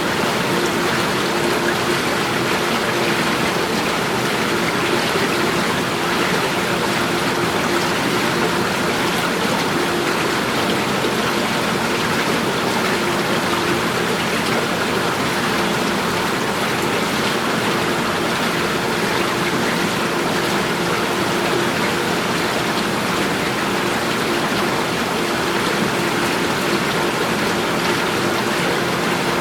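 Steady rushing of running water, unbroken and even, with a faint steady hum beneath it.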